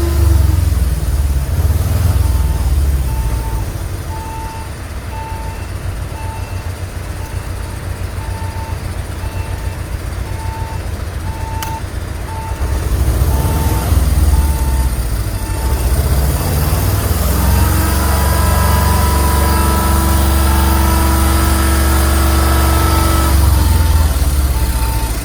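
Heavy truck's diesel engine rumbling, with a warning beeper sounding at a steady pace of a little more than one beep a second. The beeping stops about two-thirds through and comes back near the end, and a steady tone joins for a few seconds near the end.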